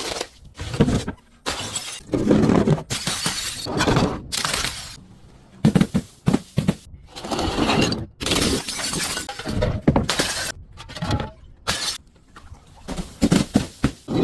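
Glass being broken and crushed: an irregular run of crunching, shattering cracks, one after another with short pauses between them.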